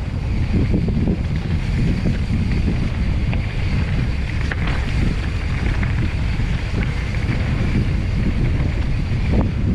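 Wind buffeting the microphone of a mountain bike's onboard camera as the bike rides fast down a dirt singletrack, with tyre and trail rumble and a few sharp clicks and rattles from the bike.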